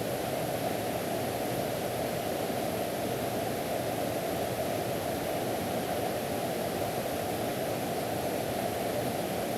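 Mountain stream rushing steadily over rocks, a constant even roar of water.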